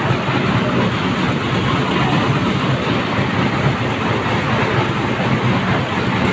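A train running past: a steady, loud rumble and rattle.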